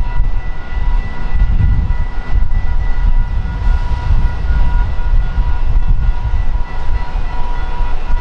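A train running close by: a deep, loud rumble with a steady high whine over it.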